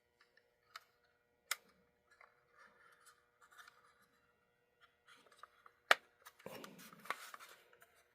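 Light clicks and faint scraping of small model-locomotive parts being handled and fitted: three sharp clicks, the loudest about six seconds in, with a short run of scratchy rubbing after it.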